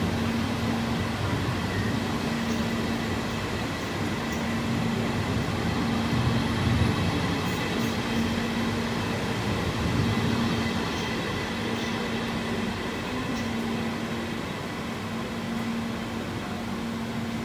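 Electric train moving along the track: a steady rumble with a low hum that comes and goes.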